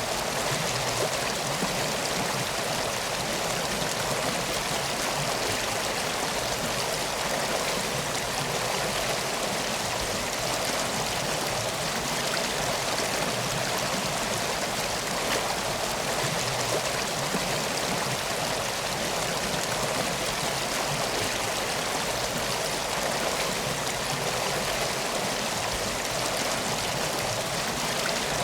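Steady rushing and trickling of a flowing river, an even water noise with no breaks or distinct crackles.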